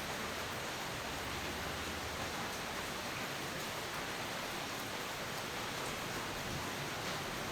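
Steady, even rain hiss with no thunder. A few faint drop ticks show above the hiss.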